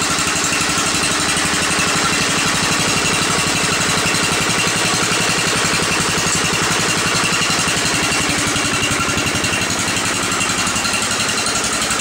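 Small garden tractor engine idling steadily while it warms up after a cold start in below-freezing weather.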